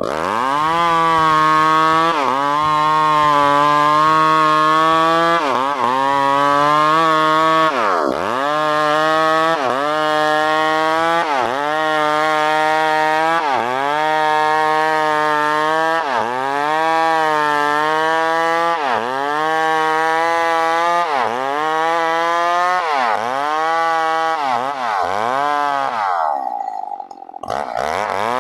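New West PRO 888 two-stroke chainsaw sawing wood at high revs. Its pitch dips sharply and recovers every second or two. Near the end it drops back briefly, then revs up again.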